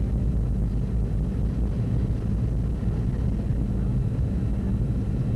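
DC-9 jet airliner cabin noise: the steady low rumble of the rear-mounted Pratt & Whitney JT8D engines and airflow, heard from inside the passenger cabin.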